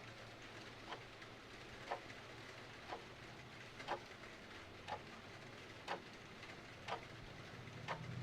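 A clock ticking steadily, about once a second, over a steady hiss of rain.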